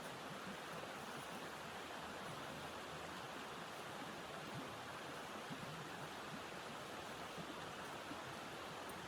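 Blizzard wind blowing steadily: an even rushing noise that neither rises nor falls, with no distinct knocks or clicks.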